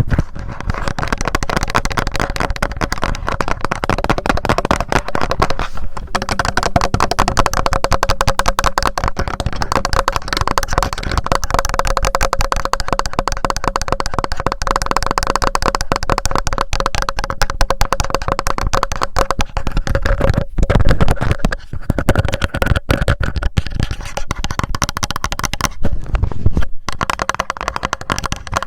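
Fast, continuous tapping on a TASCAM handheld recorder, right on its built-in microphones, with a few brief pauses near the end.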